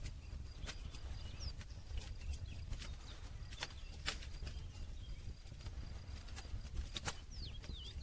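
Wood campfire crackling, with irregular sharp pops over a steady low rumble. A few short, high chirps come about a second and a half in and again near the end.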